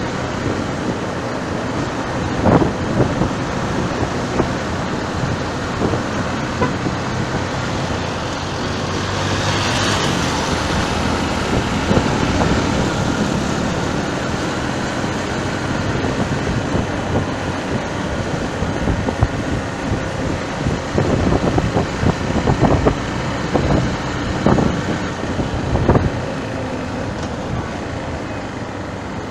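Steady road traffic noise mixed with wind, with a swell as something passes about a third of the way in and a few sharp knocks near the start and again toward the end.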